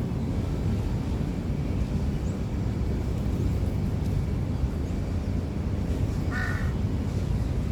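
Steady low rumbling noise, with a single short bird call about six seconds in.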